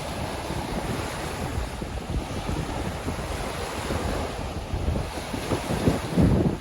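Baltic Sea waves washing onto the beach in a continuous surf, with wind buffeting the microphone; the wind rumble swells in stronger gusts near the end.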